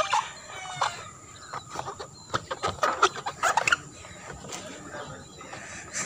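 Bird calls: a cluster of short pitched calls, most of them between about two and a half and four seconds in.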